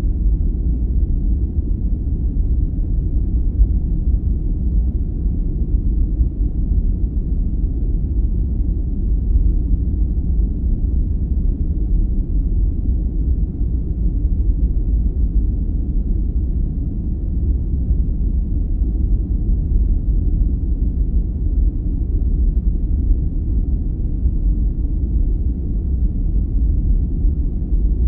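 Steady, deep rumbling noise played as a sleep aid, even and unchanging throughout, with almost nothing in the high end.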